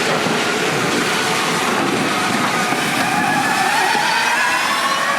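Formula E race car's electric drivetrain whine, several thin tones over a steady rush of noise, one whine rising slowly in pitch as the car accelerates.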